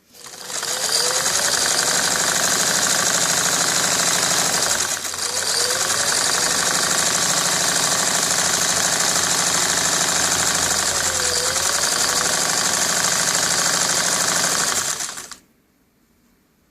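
1968 Singer sewing machine, freshly restored, running steadily at speed. It starts about half a second in, slows briefly around five seconds, and stops near the end.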